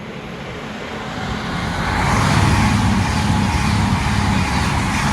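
Diesel passenger train approaching and passing on the main line: a rushing mix of wheel and engine noise that builds over the first two seconds, then stays loud and steady.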